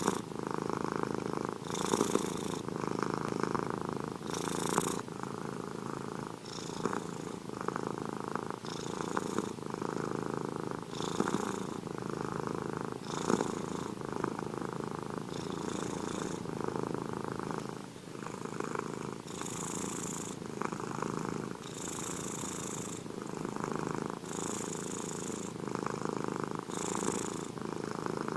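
Domestic cat purring steadily, the rumble swelling and easing with each breath in and out about every two seconds.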